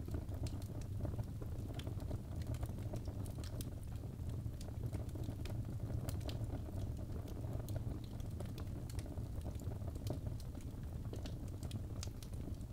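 Birchwood logs burning in a fireplace: a steady low rumble of flame with frequent sharp, irregular crackles and pops.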